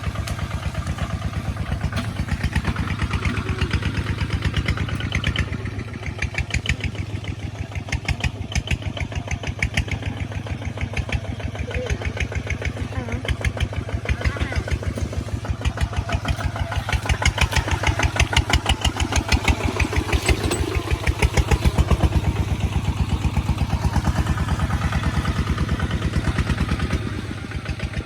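Kubota ZT155 walking tractor's single-cylinder diesel engine running steadily with an even, rapid putter, a little louder past the middle and easing slightly near the end.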